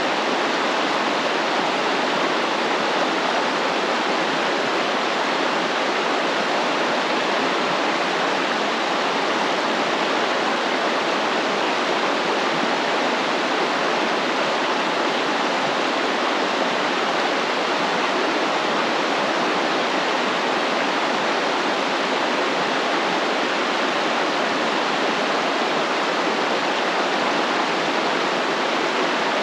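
Stream water flowing, a steady rushing sound.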